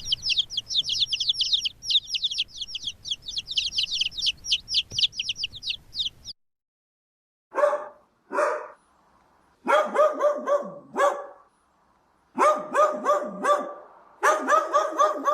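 Animal calls in two abruptly cut segments. First comes rapid, high-pitched chirping of about five to six peeps a second. After a short silence, groups of lower, quick repeated yelping calls follow in several bursts.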